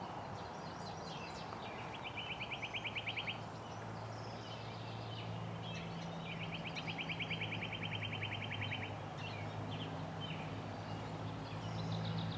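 Quiet outdoor ambience: a bird sings a fast, evenly pulsed trill twice, a short one and then a longer one, with scattered faint chirps. A low steady hum joins partway through.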